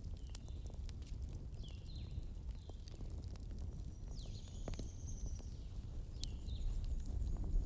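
Campfire crackling, with scattered sharp pops over a low rumble, while birds chirp short descending notes every second or so, one longer call about halfway through.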